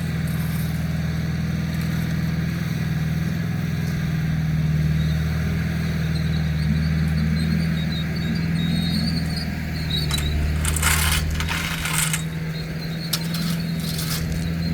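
A heavy machine's engine running steadily at a constant pitch, with a few sharp metallic clanks about ten to twelve seconds in.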